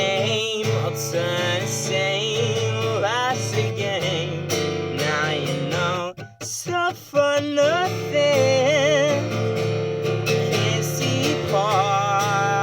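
Acoustic guitar played under a singing voice that wavers in pitch. The sound drops out briefly about six seconds in, then resumes.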